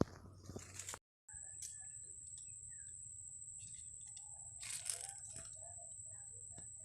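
Small birds chirping faintly and intermittently, with a steady high-pitched tone running under them.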